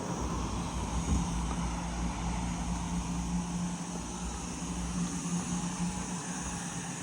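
A motor vehicle's engine running steadily, a low rumble with a steady hum.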